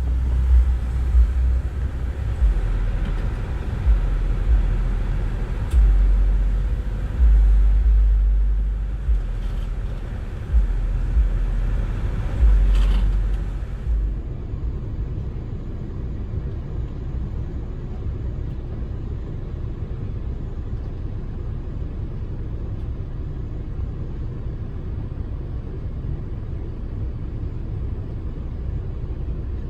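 4x4 truck rumbling low as it drives a dirt trail, with gusty wind buffeting the microphone through the first half. About halfway through the sound changes abruptly to a steadier, quieter drone.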